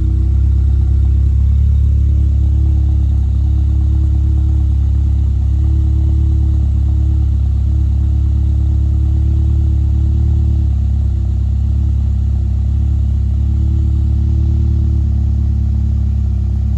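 Volkswagen GTI's turbocharged 2.0-litre four-cylinder idling steadily just after a cold start, a low, even drone through an AWE Touring cat-back exhaust and catted downpipe.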